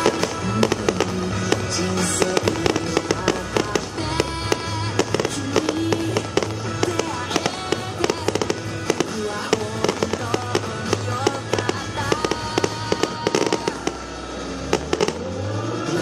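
Fireworks bursting in the air, with many sharp pops and crackles in quick succession, over background music with a melody.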